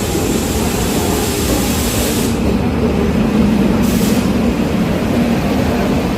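Humsafar Express passenger train running on the rails, a steady loud rumble. A high hiss over it stops about two seconds in, and a short hiss comes back about four seconds in.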